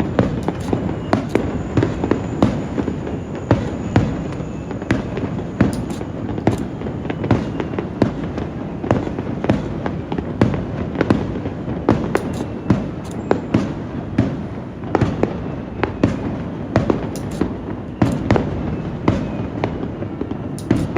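Fireworks display finale: aerial shells bursting in quick succession, with sharp bangs often several a second over a continuous low rumble of explosions.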